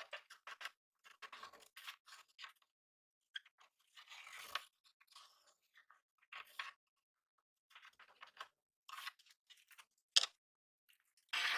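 Short, irregular strokes of scraping and crunching with silent gaps between them, from hand work on the knife. Just before the end a loud, steady noise starts.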